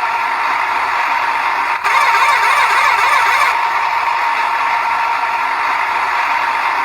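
Mini tractor's small motor and gears whining steadily under load, the pitch wavering up and down after a brief break about two seconds in.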